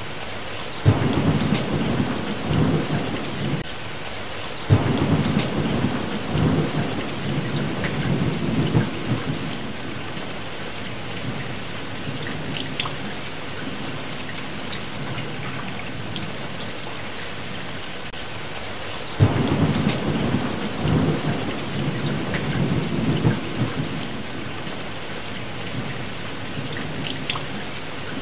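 Steady rain with thunder. Three claps start sharply, about a second in, about five seconds in and again near the twenty-second mark, and each rolls on in a low rumble for several seconds.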